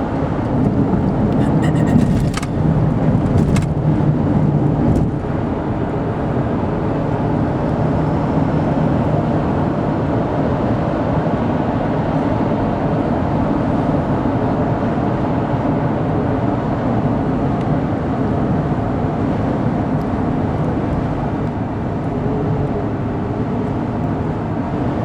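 Steady road and engine noise inside a car cabin at highway speed, with a few light clicks or knocks in the first few seconds.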